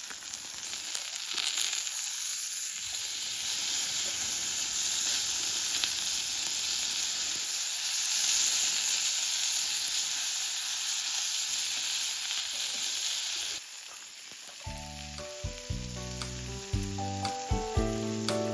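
Food sizzling as it fries, a steady loud hiss. About three quarters of the way through it cuts off abruptly, and background music with a steady beat comes in.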